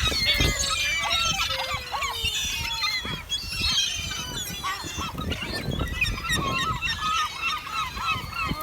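A flock of gulls calling all at once in a dense chorus of short, overlapping squawks, many birds together around food.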